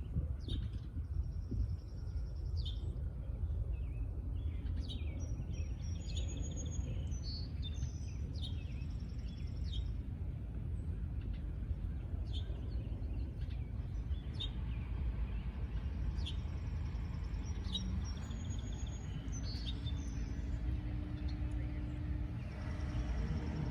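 Small birds chirping in short, scattered calls over a steady low rumble of outdoor noise; a faint low hum comes in near the end.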